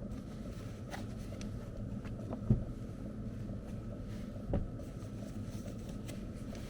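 Low steady rumble of blizzard wind, broken by two dull thumps about two seconds apart, the first louder.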